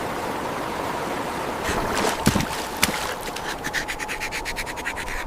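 Rushing river water with a few splashes about two seconds in. From about three seconds, a rapid, even scratching sounds over the water, about eight strokes a second.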